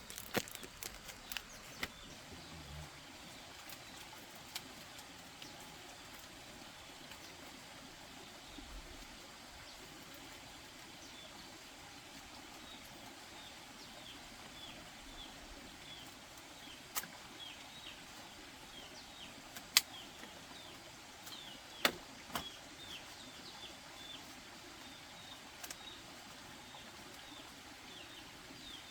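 Birds chirping: many short, high, falling chirps in quick series over a quiet outdoor background, starting about a third of the way in. A few sharp clicks or knocks break in, two loud ones past the middle.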